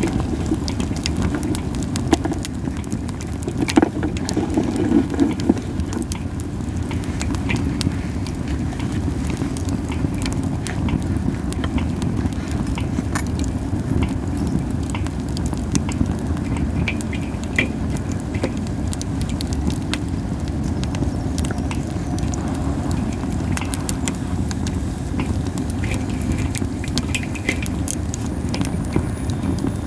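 Campfire of Japanese spindle-tree (masaki) wood crackling, with frequent irregular sharp pops and snaps over a steady low rumble.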